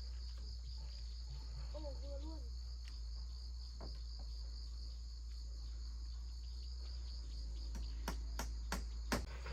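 Insects chirring steadily in a high, even drone, with a low steady hum underneath. A few sharp knocks come near the end, the last one the loudest.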